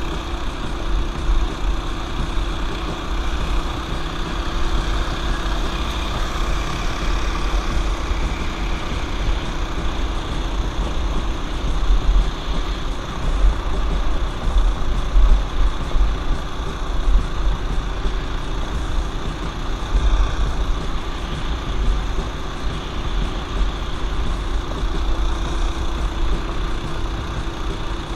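Small single-cylinder engine of a torque-converter mini bike running steadily while riding a trail, with a heavy low rumble throughout.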